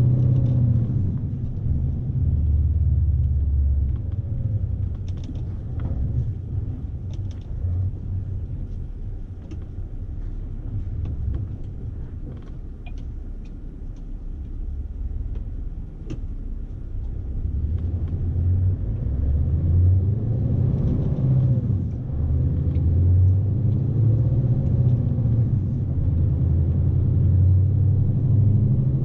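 Scania S520's V8 diesel engine heard from inside the truck cab as a low rumble. It eases off for several seconds in the middle, then builds again about two-thirds of the way through, with the engine note rising and falling.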